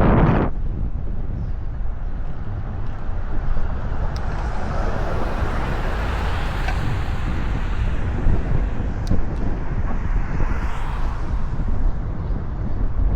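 Wind rumbling on the microphone of a moving road bike, with a car's tyre and engine noise swelling past from about four seconds in and fading again near the end.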